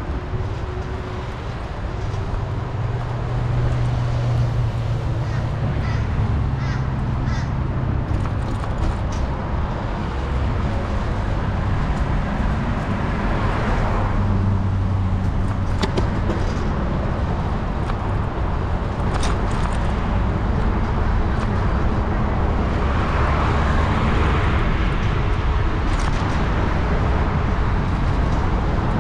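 Wind rumbling on the microphone of a moving bicycle ride, with road traffic passing. Two vehicles swell past, about halfway through and again near the end.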